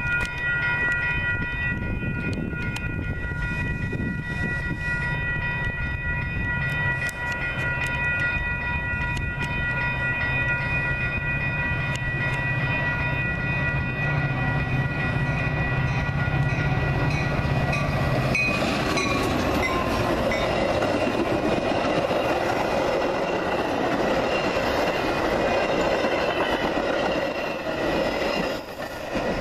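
Railroad crossing signals ringing steadily while a Metra commuter train approaches. About two-thirds of the way in, a louder rumble and clatter of wheels on the rails takes over as the train's bilevel cars pass through the crossing.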